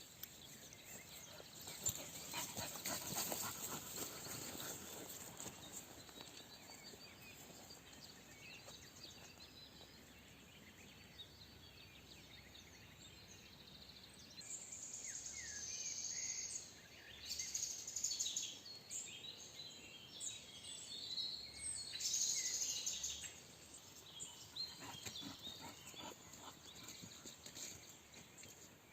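Woodland birds singing and chirping, with the busiest song a little past halfway. A scratchy rustle fills the first few seconds.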